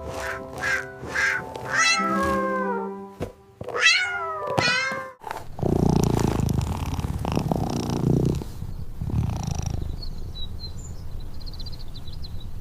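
Cat meowing several times, with rising and falling calls, over light background music; from about halfway a low, steady rumble takes over.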